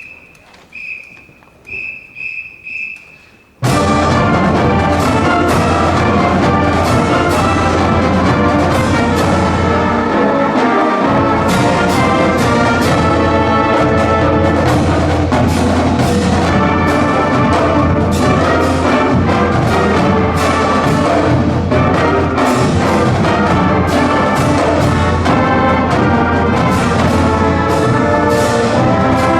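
A few short whistle blasts, a count-off, then a full marching band with brass and percussion comes in loudly about three and a half seconds in and plays on.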